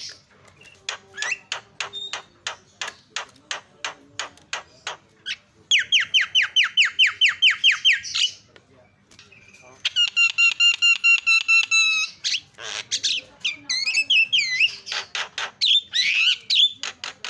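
Myna (jalak) calling in a varied, noisy series: a run of sharp clicks, then a fast string of falling whistles about five a second, a harsh buzzy note held for about two seconds, and a jumble of whistles and squawks near the end.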